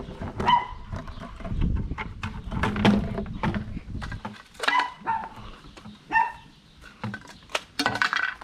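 A dog barking several times in short calls, with a low rumble between the first barks.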